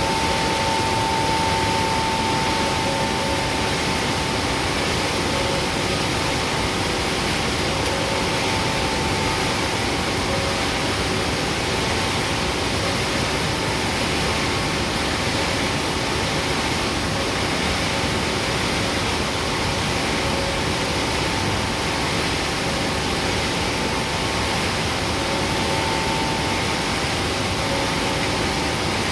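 Palm oil mill machinery around a screw press running steadily: a loud, even noise with a faint steady whine over it.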